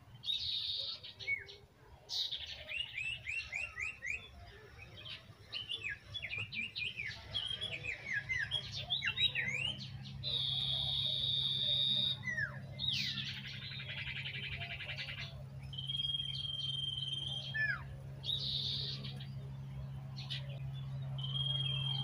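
Small songbirds chirping and trilling: a busy run of quick rising and falling chirps, buzzy trills and a few held whistles. A steady low hum sits underneath from about a third of the way in.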